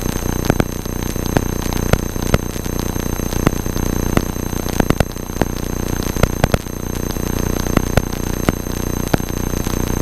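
Electrical interference on a Cessna 172's cockpit intercom recording: a steady buzz with fixed high whining tones and frequent irregular crackling clicks, over a low, steady drone.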